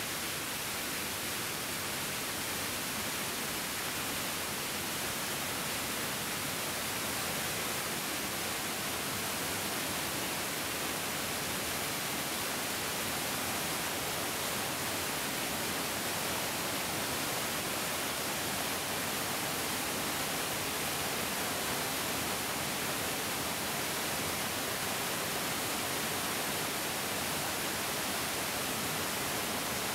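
Mountain stream water rushing steadily over rocks, an even hiss with no breaks.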